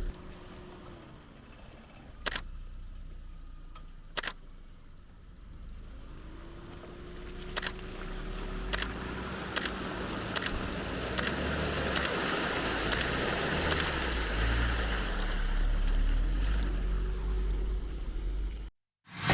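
Off-road 4x4 vehicle driving on a dirt trail: a low engine rumble under a noise that builds slowly, with scattered sharp clicks and knocks. It cuts off suddenly near the end.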